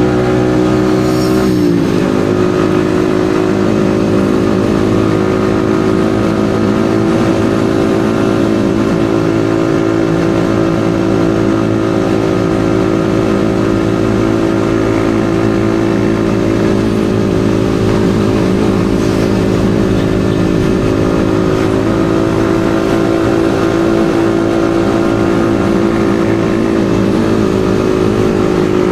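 Yamaha XSR155's 155 cc single-cylinder engine running at a steady riding pitch. Its pitch drops briefly and recovers about a second and a half in.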